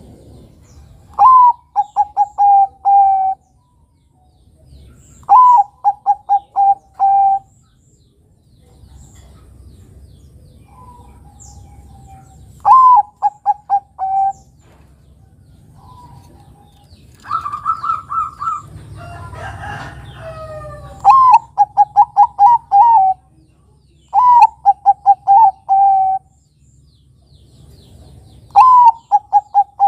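Zebra dove (Bangkok perkutut) cooing: about six loud phrases, each a rising opening note followed by a quick run of about five short coos, spaced a few seconds apart. Around the middle comes a rougher call with gliding pitches.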